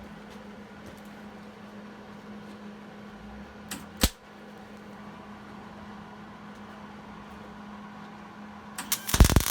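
A steady low hum with one sharp knock about four seconds in; near the end an electric welding arc strikes and crackles loudly.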